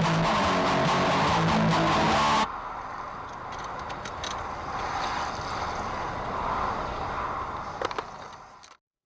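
Guitar music that cuts off abruptly about two seconds in, followed by the steady running and road noise of a car, with a couple of sharp knocks, fading out shortly before the end.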